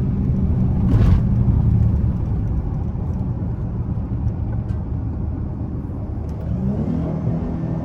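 Dodge Charger V6 engine and road noise inside the cabin at highway speed, just after a run to 120 mph; the sound slowly eases, with a brief rush of noise about a second in. The engine pitch climbs again near the end.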